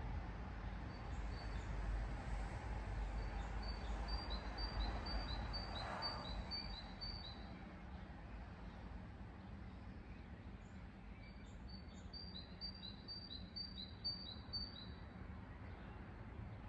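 A small songbird singing two bouts of rapid, repeated high chirps in two alternating pitches, a few notes a second, with a pause between the bouts. A low rumble runs underneath, stronger in the first half.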